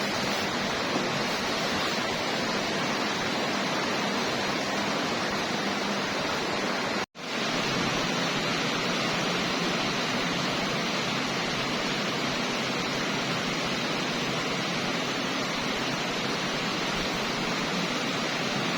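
Steady rushing water noise. About seven seconds in it cuts out to silence for a moment, then comes back.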